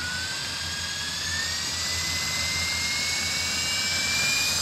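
Radio-controlled model aircraft's motor running with a high whine that climbs steadily in pitch and grows slightly louder as it speeds up.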